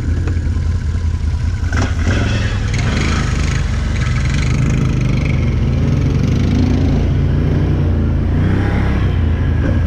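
Can-Am 1000's V-twin engine running hard under load as the machine pushes through thick mud. The engine picks up about two seconds in, with rough splashing and churning noise over it.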